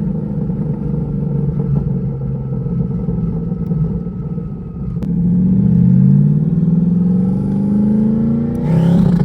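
Twin-turbo Coyote 5.0 V8 in a 2011 Mustang GT running at low revs, then after a sharp click about five seconds in, the revs climb steadily. Near the end a loud rushing hiss joins the engine.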